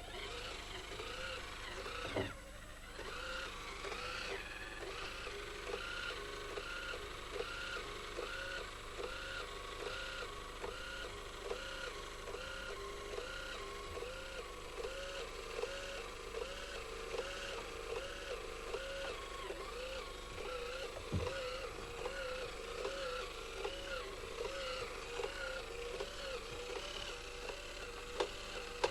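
Toy American police car's siren wailing in a quick, even rise-and-fall, about two cycles a second, with a few sharp clicks.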